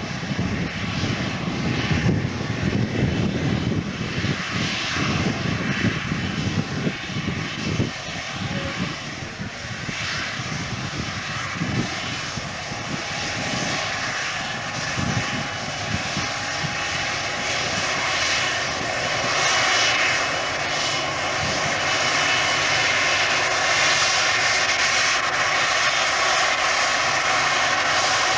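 Jet airliner engines running, growing louder over the second half with a steady whine above the roar. There is a gusty low rumble in the first half.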